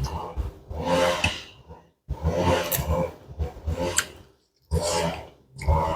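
Close-miked eating noises: chewing and breathing in short bursts about a second apart, with brief gaps between them.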